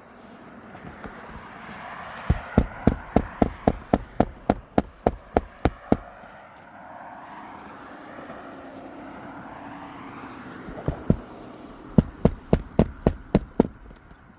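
Hammer driving roofing nails into an asphalt shingle: a quick run of about a dozen evenly spaced strikes, two more a few seconds later, then a second run of about seven near the end, over a steady background noise that swells and fades.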